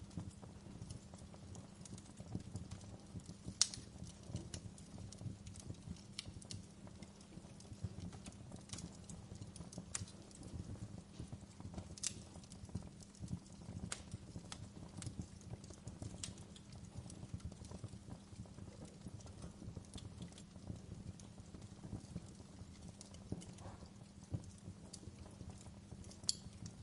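Wood fire in a fireplace crackling, with irregular sharp pops of burning logs, a few louder than the rest, over a steady low rumble of the flames.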